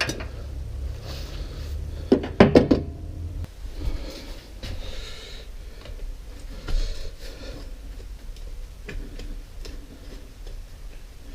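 Hand tools and metal parts clinking and knocking while a starter motor is being unbolted from an old excavator. A quick cluster of sharp knocks comes about two seconds in, followed by scattered lighter clicks and rustling.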